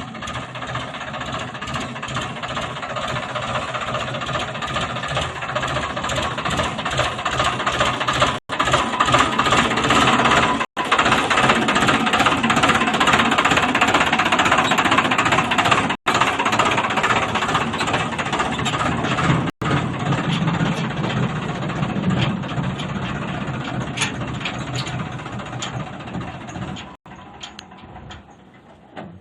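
Tractor's diesel engine running with a rattling knock, growing louder over the first several seconds, holding steady, then fading away near the end.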